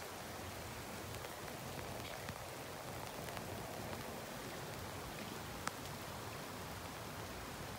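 Steady hiss of heavy rain falling, with a single sharp tick a little over five seconds in.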